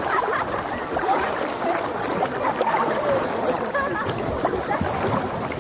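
Whitewater on a river swollen after a typhoon, rushing steadily, with voices calling faintly through it.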